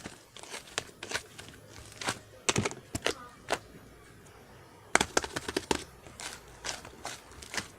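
Slime being squeezed and worked by hand, giving irregular clusters of sharp clicks and pops as air pockets burst, with a pause of about a second past the middle.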